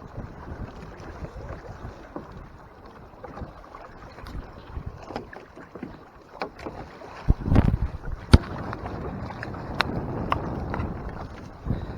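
Choppy water splashing and slapping against the hull of a Hobie Mirage Tandem Island sailing kayak under way, with wind on the microphone. Many short knocks, and a louder splash and sharp knock about seven and a half seconds in.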